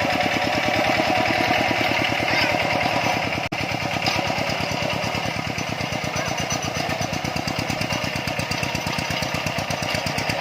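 Tractor engine running steadily under load while plowing a rice field, with a rapid, even firing beat; a momentary break about three and a half seconds in.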